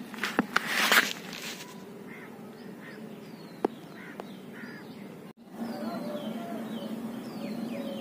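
Birds chirping in short, faint calls, broken by a loud burst of rustling noise in the first second and a few sharp clicks. After a brief cut about five seconds in, a denser run of short falling chirps.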